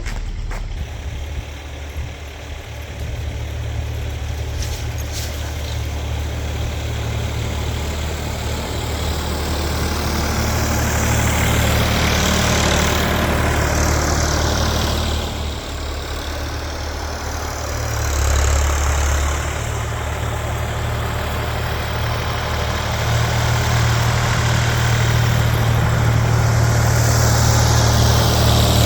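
Massey Ferguson tractor engine running steadily while the tractor is driven. The engine gets louder twice, in the middle and near the end, as it pulls harder.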